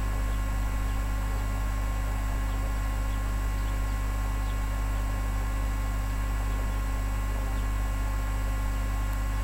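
Steady electrical hum with several fixed tones, unchanging throughout.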